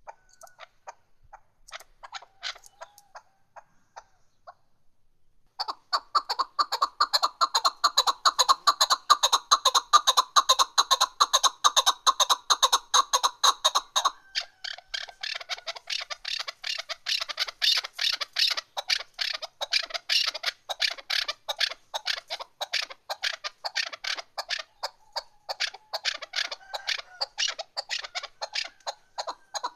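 Female chukar partridge calling: after a few scattered notes, a rapid, unbroken series of short repeated chuck notes starts a few seconds in, and the notes change character about halfway through.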